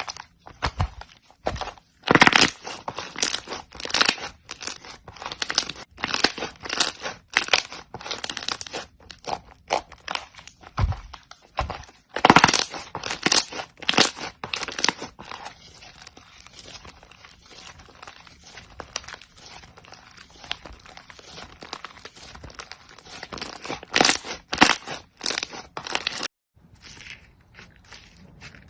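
Crunchy slime being squeezed and worked by hand, giving dense, irregular clusters of crackles and pops, with a brief silent break near the end.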